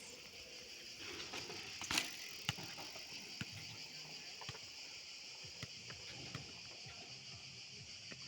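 Steady outdoor insect chorus, with a few scattered clicks and knocks, the loudest about two seconds in.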